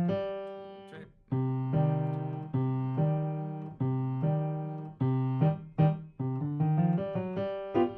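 Piano playing a slow left-hand accompaniment in three-beat time: a low bass note followed by repeated chords, each note struck and left to ring down.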